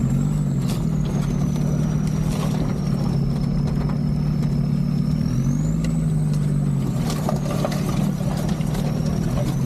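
Land Rover Discovery 2 Td5's five-cylinder turbodiesel engine running steadily at low speed on a rough lane, its pitch rising about five and a half seconds in and easing back a second or so later. A high whistle rises and falls with the engine, and a few sharp knocks sound over the bumps.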